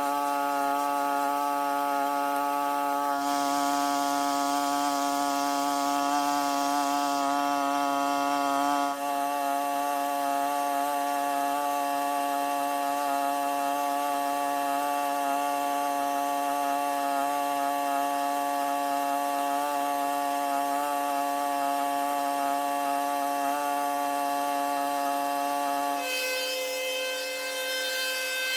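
A small petrol engine running steadily at high speed with an unchanging pitch. Its note shifts about two seconds before the end.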